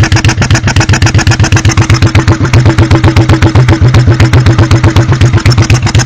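1986 Honda Shadow VT1100C V-twin idling, its rear exhaust heard up close as a steady run of rapid, even pulses. The rear exhaust almost sounds like it's sucking in. The rear cylinder is misfiring and blowing back out through its carburetor, which the owner puts down to cam timing.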